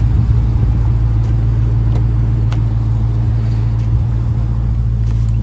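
Car engine and road noise heard from inside the cabin while driving: a steady low hum with a few faint clicks.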